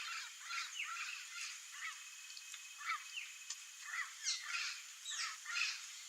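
Turquoise-fronted parrots (Amazona aestiva) giving a rapid series of harsh, squawking calls, about two a second, some of them overlapping.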